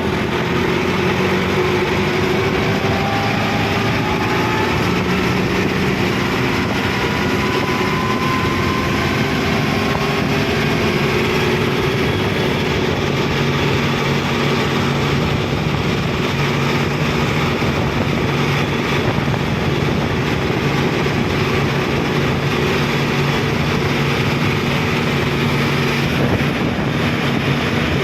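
Kubota MU5502 tractor's four-cylinder diesel engine running steadily under way on the road, its pitch drifting slightly up and down.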